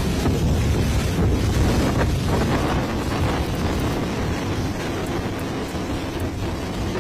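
Loud, steady rumbling noise, heaviest at the low end, with wind buffeting the microphone; it eases slightly toward the end.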